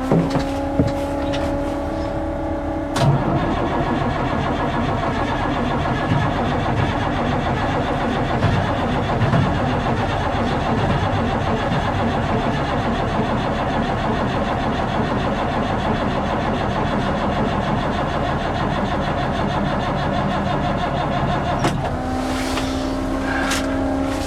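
Truck engine being cranked by its starter for about 19 seconds without catching, with a steady whine before and after the cranking: the truck won't start.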